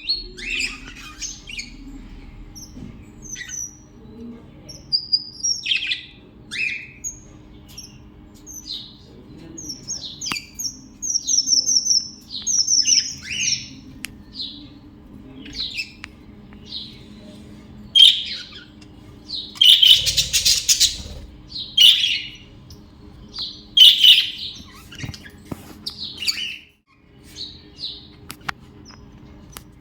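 A flock of budgerigars in an aviary chirping and squawking continuously. There is a quick run of repeated high chirps partway through and louder harsh squawks in the second half, over a low steady hum.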